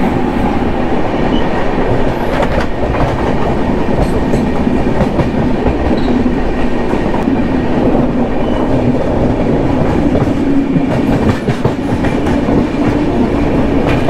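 Two express trains of Indian Railways LHB coaches passing close alongside each other, heard from the open door of the moving train: a loud, steady rush of wheel and air noise, with a few clicks of wheels over rail joints.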